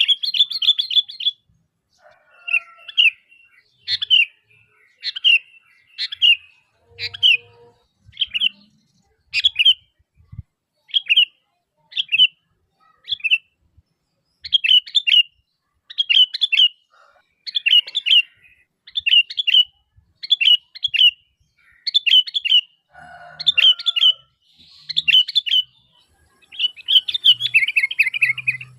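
Sooty-headed bulbul (kutilang) calling lively: short, bright chirping phrases repeated about once or twice a second, coming thicker near the end.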